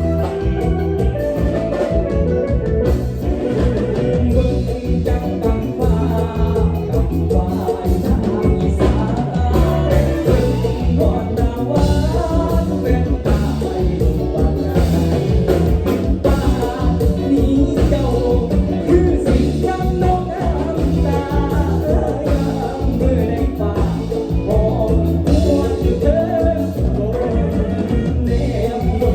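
Live Isan mor lam band playing lively toei-style dance music, with a steady bass and drum beat under a singer's voice.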